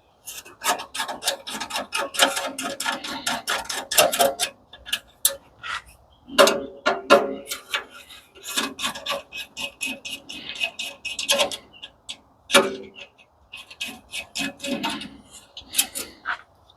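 Rapid irregular clinks, knocks and scraping of metal parts being handled and pulled apart while dismantling a commercial coffee machine, with a few louder metallic strikes that ring briefly.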